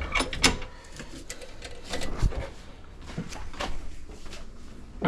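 Irregular clicks, knocks and clatter of tire-repair equipment being handled, with louder knocks about half a second in and around two seconds in.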